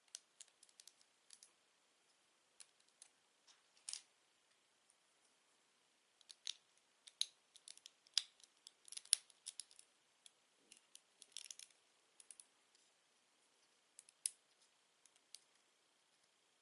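Plastic Lego bricks being handled and pressed together: faint, scattered light clicks and taps, thickest in the middle stretch.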